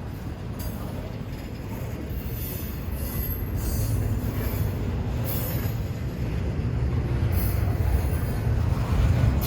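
A train rolling by, its low rumble growing steadily louder as it nears, with short high wheel squeals every second or two.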